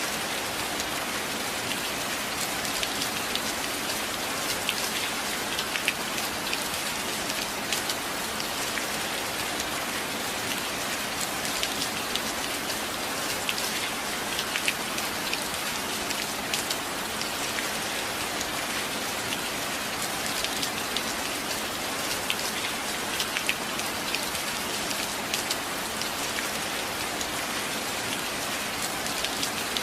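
Steady heavy rain falling on a roof, with many close individual drops ticking against hard surfaces.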